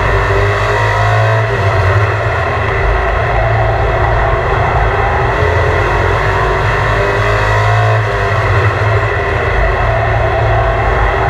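Super Pro drag-racing truck's engine running at a steady loud level, its pitch slowly rising and falling a couple of times.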